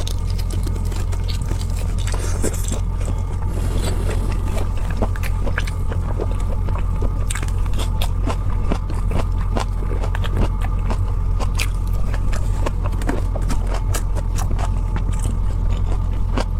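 Close-miked eating: wet biting and chewing with many small irregular clicks and crunches, over a steady low electrical hum.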